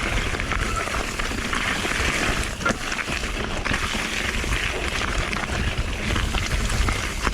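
Mountain bike riding over a rough, rocky trail: wind buffets the on-board microphone while the tyres roll over rock and the bike rattles, with a sharp knock about two and a half seconds in.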